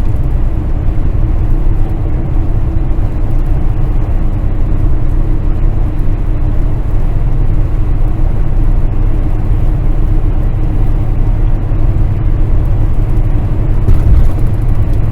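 Kenworth semi-truck driving on the highway, heard from inside the cab: a steady low drone of engine and road noise, with one brief bump near the end.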